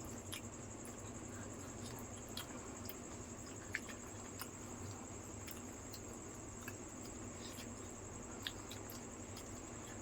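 Soft wet squishes and scattered small clicks of dahi fuchka being eaten, the loudest about four seconds in and again near the end. Under them runs a steady high-pitched trill of crickets.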